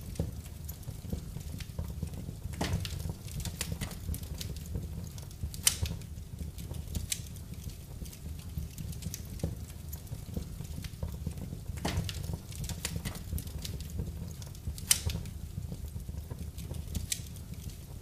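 Wood fire burning in a fireplace: irregular crackles and sharp pops over a steady low rumble of flame, with the loudest snaps about six and fifteen seconds in.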